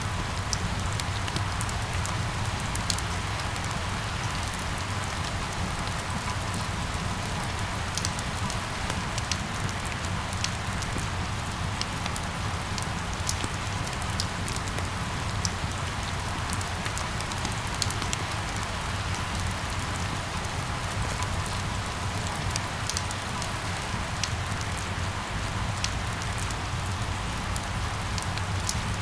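Steady rain, with scattered single drops ticking sharply above it and a low rumble underneath.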